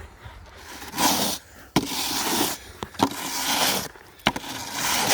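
Snow shovel scraping along the sidewalk through slushy snow: four strokes about a second apart, with a sharp clack of the blade between some of them.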